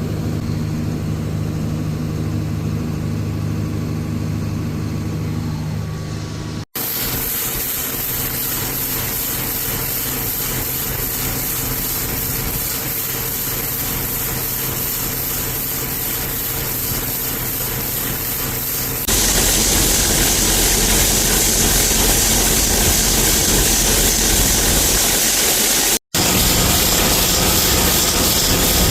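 Heavy diesel farm machinery running steadily. A low engine hum breaks off abruptly about seven seconds in into a noisier run. That run turns louder and hissier about two-thirds of the way through, and is briefly cut once more near the end.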